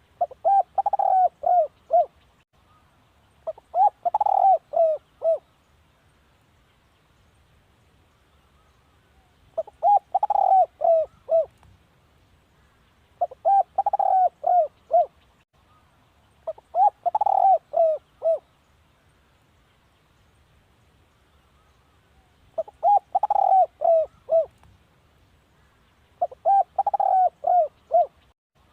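Spotted dove cooing: phrases of four to six quick coos, each note arching down in pitch, repeated every few seconds, with a longer pause about two-thirds of the way in. This is a decoy song of the kind played to lure wild spotted doves.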